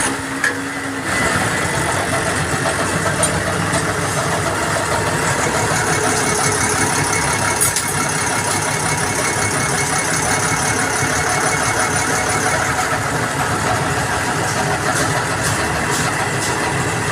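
Mahindra truck diesel engine idling steadily, running on its repaired rotary diesel injection pump.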